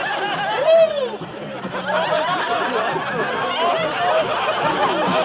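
Audience laughing and chattering, many voices overlapping, with one voice rising loud about a second in.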